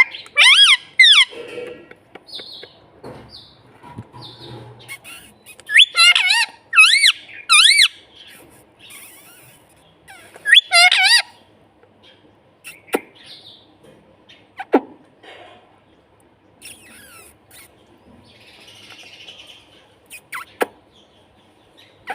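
Pet parrot giving shrill screeching calls that bend up and down in pitch, in short groups: two near the start, three around six to eight seconds in, and another pair around eleven seconds. The second half holds only a few faint clicks and taps.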